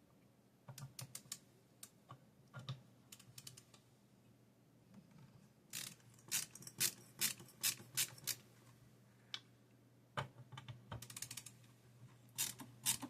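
Small metal clicks and taps from a bit screwdriver working the spring-loaded screws that hold a graphics card's cooler, coming in irregular clusters with short pauses between.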